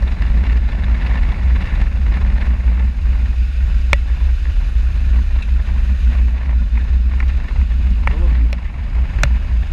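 Motorcycle ride heard through an action camera: steady low rumble of wind buffeting the microphone over the engine, with a few faint clicks.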